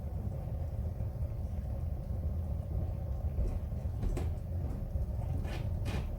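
Wood fire burning in a fireplace: a steady low rumble with a few sharp crackles and pops of wood in the second half.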